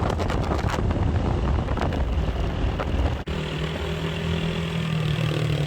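Motorcycle on the move, with wind rushing over the microphone. After an abrupt cut about three seconds in, the engine's hum holds at a steady pitch.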